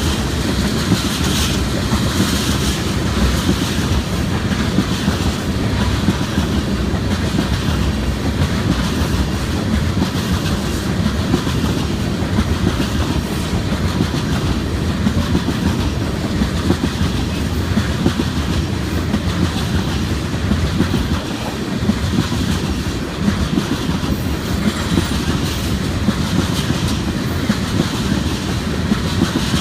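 A freight train rolling past, its railcars' steel wheels clicking over the rail joints in a steady clickety-clack over a continuous rumble.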